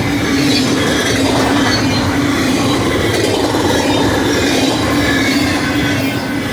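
BNSF intermodal freight train passing at speed: a loud, steady rush of wheels on rail with a constant low hum.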